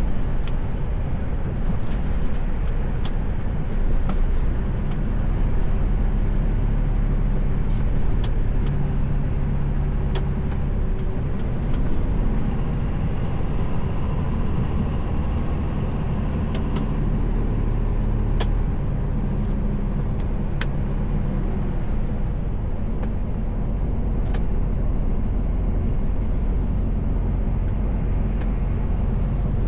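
Mercedes Actros L truck driving, heard from inside the cab: a steady diesel engine drone under road and tyre noise, with scattered light clicks.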